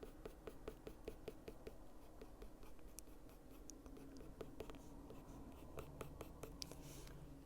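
Faint scratching of a Caran d'Ache Luminance coloured pencil on paper in quick short strokes, about five a second, easing off a couple of seconds in and then picking up again.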